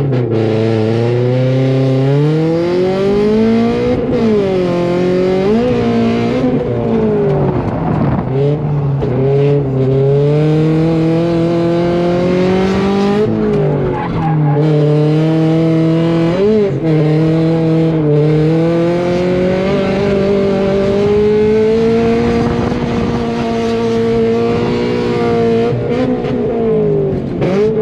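Drift car's engine held at high revs through a drift run, its pitch climbing at the start and dipping briefly several times as the throttle is lifted and reapplied, with tyre squeal underneath.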